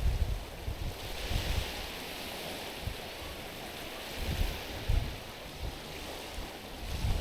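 Small waves lapping and washing over a rocky, stony shore, with a hissing wash that swells about a second in. Low gusts of wind buffet the microphone now and then.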